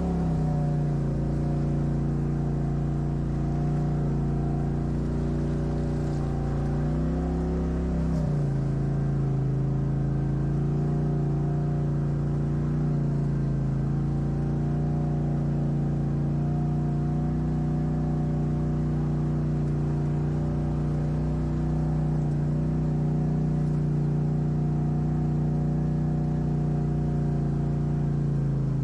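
Off-road vehicle's engine running at steady revs, rising briefly about seven seconds in, then settling to a slightly lower, steady drone.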